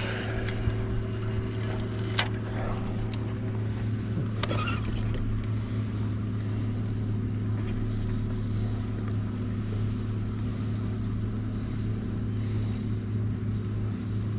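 A boat motor running steadily with a low, even hum, with a few light clicks and knocks in the first few seconds.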